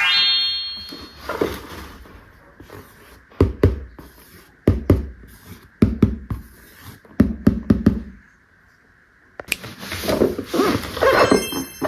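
Hard plastic toy pieces being handled and set down: a series of separate knocks and taps, then denser rustling and handling noise near the end. A short rising synth jingle ends in the first second.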